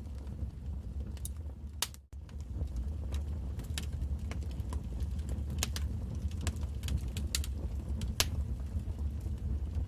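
Wood fire crackling in a fireplace: irregular sharp pops and snaps over a steady low rumble of the burning fire, with a brief dropout about two seconds in.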